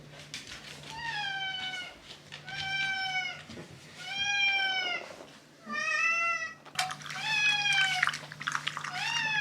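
A cat meowing six times in a row, each meow under a second long and high-pitched, rising slightly then falling away.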